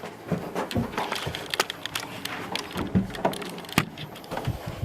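Irregular knocks, thumps and clatter of footsteps and handling as an upright vacuum cleaner, not running, is carried by hand, about a dozen scattered knocks with no steady motor sound.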